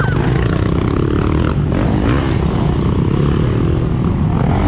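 Several motocross dirt bike engines running loudly at once, their pitch rising and falling as the riders work the throttle.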